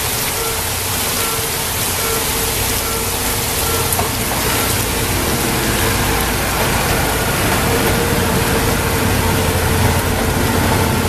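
Heavy rain hissing while a level-crossing warning signal sounds in evenly repeated short tones, and a passenger train passes over the crossing with a low rumble that grows louder near the end.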